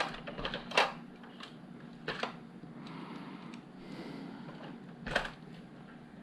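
Plastic LEGO pieces clicking and knocking as they are handled and fitted: a quick run of sharp clicks in the first second, then a couple more about two seconds in and one about five seconds in.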